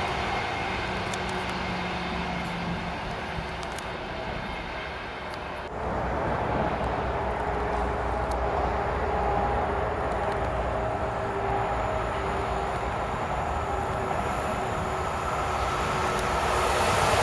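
A distant train's rumble fading as it moves away, then an approaching EU44 Husarz (Siemens Taurus) electric locomotive hauling an intercity passenger train. Its steady hum and rumble grow louder toward the end as it nears.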